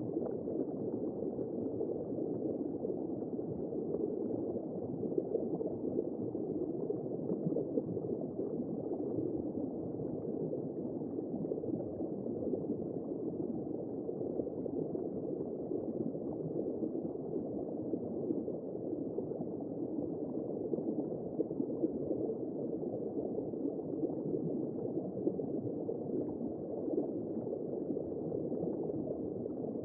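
Womb-sound white noise for settling a baby: a steady, muffled whooshing with nothing high-pitched in it.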